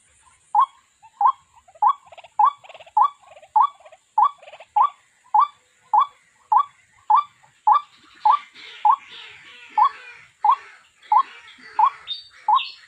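White-breasted waterhen calling: one short note repeated at an even pace, a little under two a second. This is the recorded 'quốc' call used as a trapping lure.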